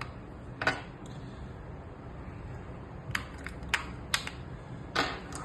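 Sharp plastic clicks and taps, about six of them spread over a few seconds, as the batteries are taken out of an air conditioner remote's battery compartment.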